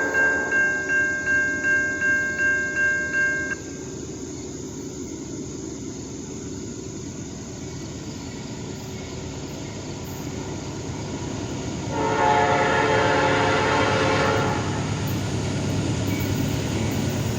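Railroad grade-crossing warning bell ringing about two and a half strokes a second, cutting off suddenly about three and a half seconds in. A train's low rumble then carries on, slowly growing, and its horn sounds one chord for about two and a half seconds near twelve seconds in.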